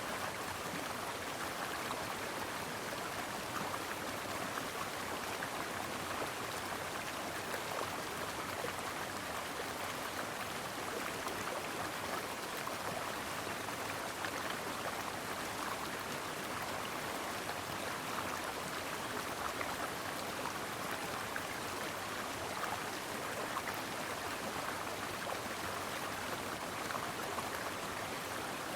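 Stream water flowing steadily over rocks, an unbroken babble of rushing water.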